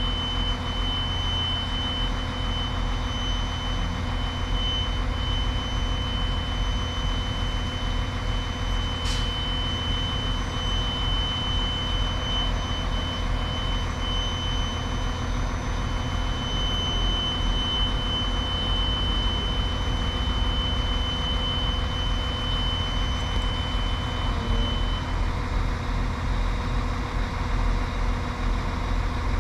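A diesel train engine idling steadily with a low rumble, a faint high whine that stops near the end, and one sharp click about nine seconds in.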